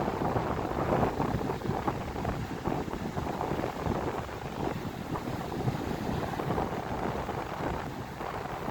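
Strong wind gusting and buffeting the microphone, over the wash of a rough sea.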